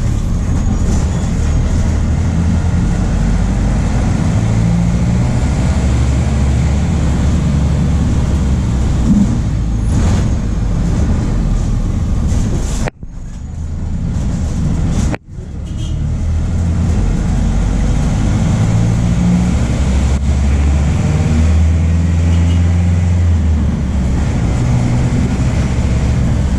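MAN D0834 four-cylinder diesel of a VW 17.230 OD bus running steadily on the road. The sound cuts out briefly twice about halfway through.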